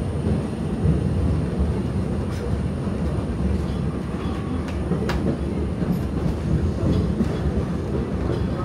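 Walt Disney World Railroad's narrow-gauge steam train running along the track, heard from aboard a passenger car: a steady low rumble of the wheels on the rails, with scattered light clicks and one sharper click about five seconds in.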